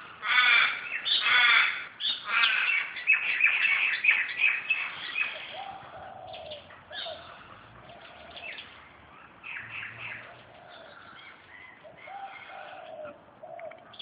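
Crows cawing loudly and harshly for the first few seconds. Then a dove cooing repeatedly, with small birds chirping.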